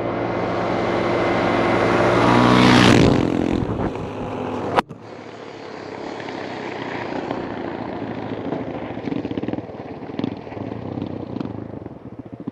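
Motor vehicle engine running, growing louder for about three seconds and then falling away. A sharp click comes just before five seconds, and after it a quieter engine sound carries on under noise.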